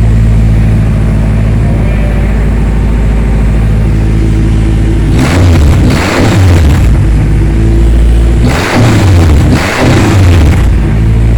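Turbocharged Honda K24A2 inline-four engine idling steadily, then revved twice, each rev rising and falling back to idle, while it runs on a base calibration from an AEM Series 2 ECU.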